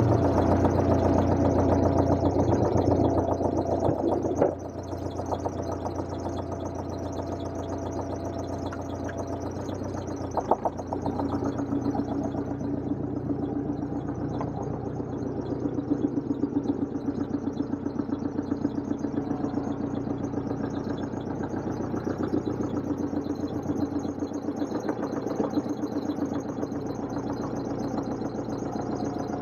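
Deutz air-cooled diesel engine of a 1977 Atlas 1302 wheel excavator running. It is louder for the first four seconds or so, then drops to a quieter, steady idle, with a single sharp knock partway through.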